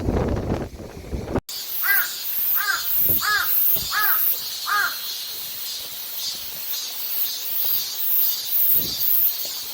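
Strong wind buffeting the microphone, cut off abruptly about a second and a half in. Then a crow caws five times, about two-thirds of a second apart, over a steady high pulsing chirp.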